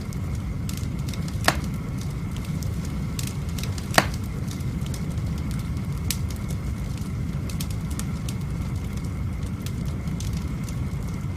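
Wood fire burning in a fireplace, a steady low rumble with scattered sharp pops and crackles from the logs. Two pops stand out, one about a second and a half in and another about four seconds in.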